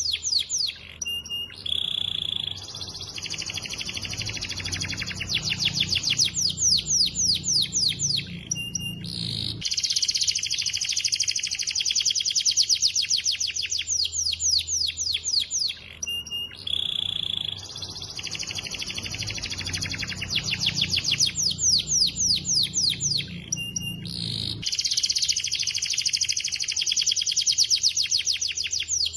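Domestic canary singing a long, high-pitched song of rapid trills and rolls, with a low hum beneath. The same passage repeats about every 15 seconds, as in a looped master song played to train other canaries.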